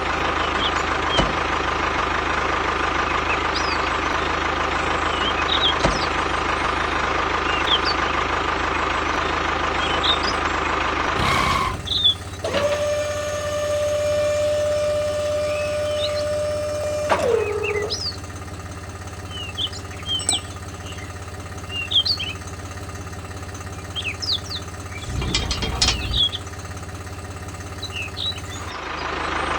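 Mini tractor's engine running steadily, its drone shifting abruptly a few times. A single held tone sounds in the middle and drops in pitch as it stops, and short high chirps are scattered over it.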